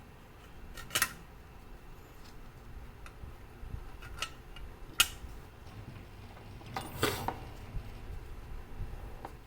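Irregular clicks and clinks of small metal parts or tools being handled during work on a clock movement. A few sharp clicks a second or more apart, with a longer clatter about seven seconds in.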